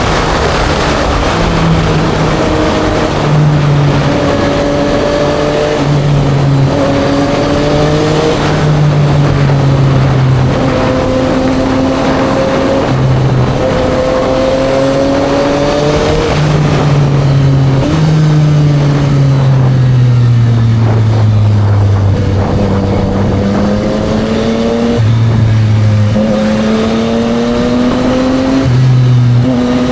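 Yamaha MT-09 SP's inline-three engine through a Spark full exhaust, heard from the rider's seat while riding. The pitch climbs and then steps down repeatedly as it pulls through the gears, with a long falling stretch midway as the bike slows.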